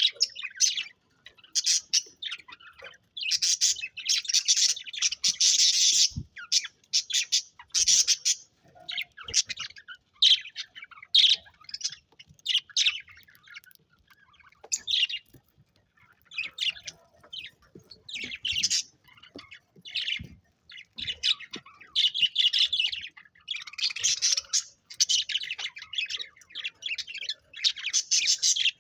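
Budgerigars chattering and chirping in short bursts with brief pauses between them, with some harsher squawks.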